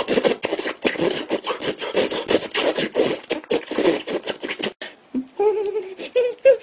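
A man making a novelty noise: a fast run of raspy, scratching strokes for nearly five seconds. After a short break come a few short, high squeaky vocal sounds near the end.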